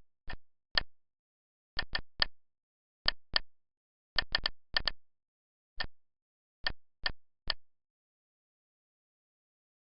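About sixteen short, identical pitched clicks, like key presses, coming singly and in quick runs of two to five at an irregular typing pace. There is dead silence between them, and they stop about two-thirds of the way through.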